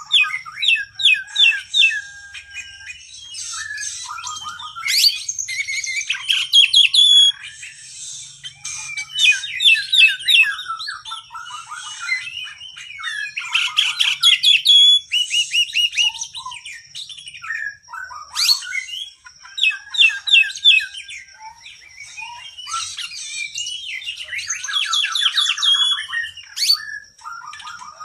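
Oriental magpie-robin (kacer) singing a long, fast, varied song of rapid trills, chirps and whistled phrases, with short breaks between bursts. A thin steady high tone runs behind much of it.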